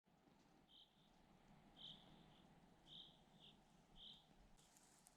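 Faint, short, high chirps repeating about once a second, over a very quiet outdoor background.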